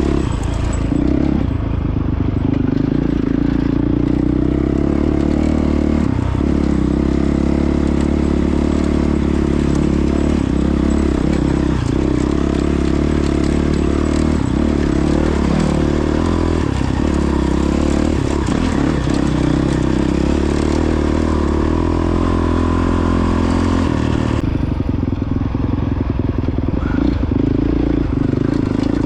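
A 2022 Honda CRF450X's single-cylinder four-stroke engine running steadily under way on the trail.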